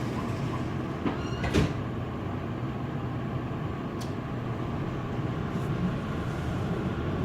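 Frankfurt U-Bahn train running between stations, heard from inside the car: a steady rumble of wheels on the track, with a few sharp clicks and knocks, loudest about a second and a half in and again at about four seconds.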